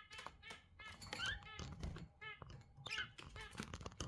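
Budgerigars chattering and warbling: a steady stream of quick chirps with short rising whistles, mixed with small clicks.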